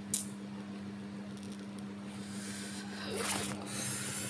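Steady low hum inside a passenger train carriage. A short click comes just after the start, and two brief hissy rustles come near the end.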